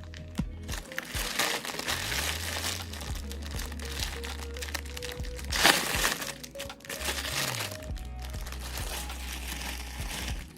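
Plastic packaging crinkling and rustling as it is handled and opened, strongest about halfway through, over background music.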